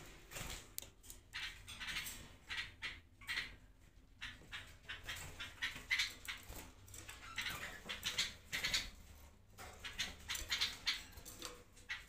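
Small cage birds chirping, many short high-pitched calls overlapping in a quick, irregular chatter.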